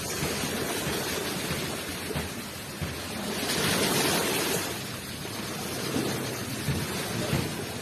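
Waves rushing onto a shore in a steady wash of surf, with one wave swelling and breaking louder about halfway through.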